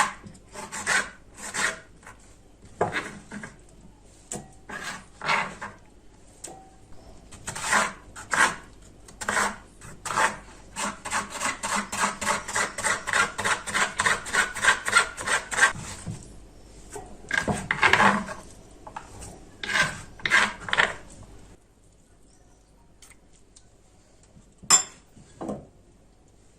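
Rasping, scraping strokes of food being worked by hand with a kitchen tool. The strokes come irregularly at first, then in a quick even run of about five a second, then stop. Near the end there is one sharp click.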